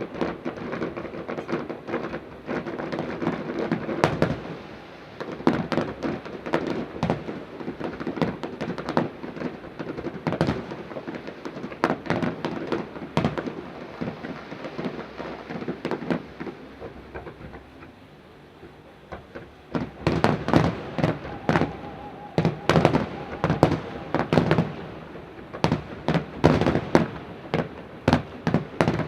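Fireworks display: a rapid run of aerial shell bursts and crackling bangs. The bangs thin out briefly about two-thirds of the way through, then a dense, fast barrage of bangs follows.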